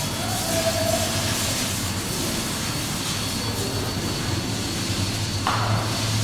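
Steady car-factory floor noise: a constant machine hum and hiss with a faint high-pitched whine, cutting in abruptly at the start, with a short burst of hiss near the end.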